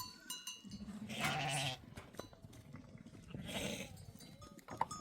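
Livestock bleating twice, each call long and wavering, with a few clinks of small animal bells.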